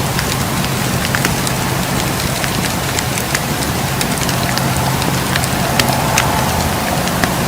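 Wood fire crackling: a steady hiss and low rumble of flames with frequent sharp snaps and pops scattered throughout.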